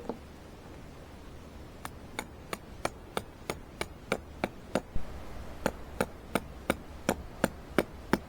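Repeated hammer blows, about twenty sharp, evenly spaced strikes at roughly three a second, starting about two seconds in and stopping just before the end.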